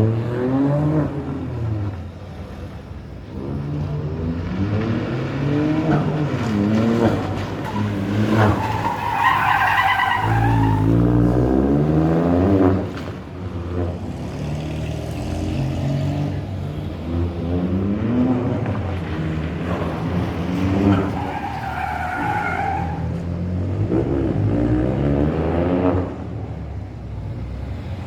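Rally car sliding through handbrake turns: the engine revs up and down again and again, and the tyres squeal twice as it drifts, once about a third of the way in and again near the end.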